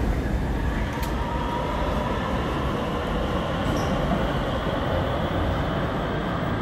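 Steady low rumble and hum of an electric commuter train at an underground station platform, with a faint whine.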